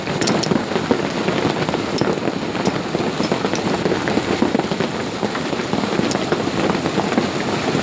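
Large hailstones and heavy rain coming down hard, a loud, dense, unbroken patter of countless small impacts.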